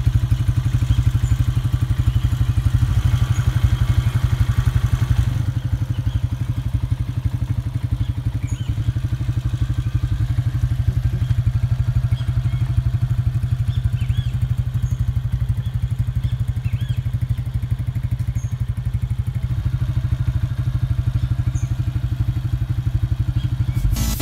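Italika FT125's 125 cc single-cylinder four-stroke engine idling steadily, a fast, even low pulse. It gets slightly softer about five seconds in.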